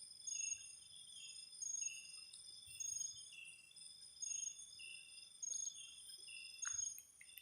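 Night insect chorus: several steady high-pitched trills, with a short call repeating evenly about every second and a quarter.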